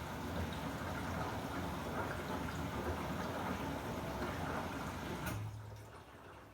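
Water rushing in a Samsung WW90J5475FX/AH front-loading washing machine during its rinse cycle. It stops abruptly about five seconds in, leaving a brief low hum that fades away.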